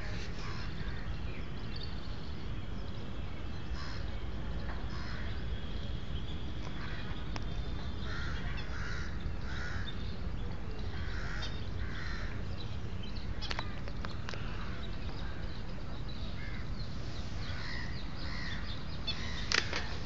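Birds calling: short calls in groups of two or three, strongest about halfway through, over a steady low rumble, with a sharp knock just before the end.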